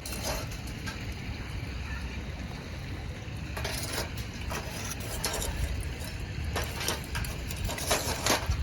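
Intermittent clinks and rattles of camp cooking gear being handled, a few short ones spread through the second half, over a steady low rumble.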